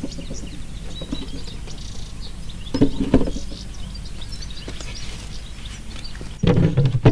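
Birds chirping, with knocks and thumps from a beehive roof being handled and set onto the hive: one cluster about three seconds in and a louder one near the end.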